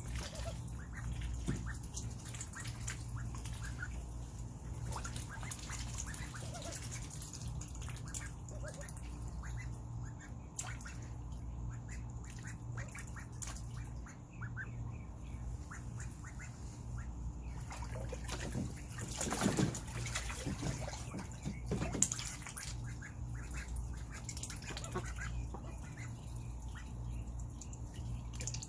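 Indian runner ducklings dabbling and splashing in a small pool of water, with scattered duck calls; a steady low hum runs underneath, and there is a louder flurry about two-thirds of the way through.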